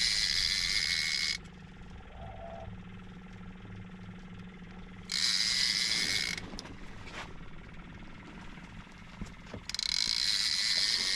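Fishing reel whirring in three bursts of a second or two each, about five seconds apart, while line is being worked against a heavy fish on the rod.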